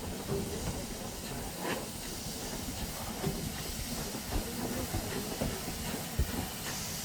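Steam locomotive giving off a steady hiss of steam, with a few faint knocks.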